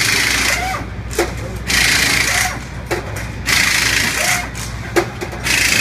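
Air tools on a Top Fuel engine teardown: short rattling, hissing bursts about every two seconds, with sharp clicks between them, over a steady low hum.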